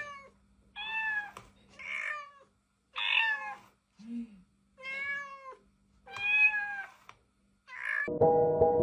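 A cat meowing over and over, six calls about a second apart, each one bending up and then down in pitch. Music starts near the end.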